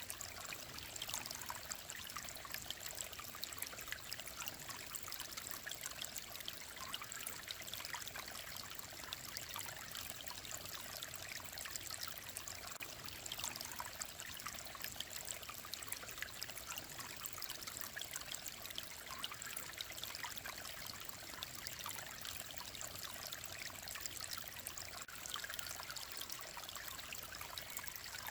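Mountain-valley stream running: a steady trickle and splash of clear water, mostly bright and high, made of many small splashes, unchanging throughout.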